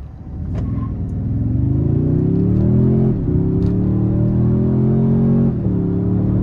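Toyota Tundra's twin-turbo V6 hybrid engine under full-throttle acceleration in sport mode, heard inside the cabin with engine sound played through the speakers: the revs climb, drop at an upshift about three seconds in, climb again and drop at a second upshift near the end.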